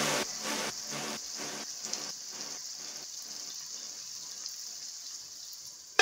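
Chopped tomatoes and onions sizzling in hot oil in a kadai: a steady hiss that slowly grows fainter.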